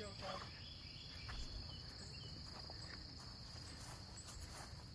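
Faint, steady high-pitched chirring of insects, with a soft low background rumble.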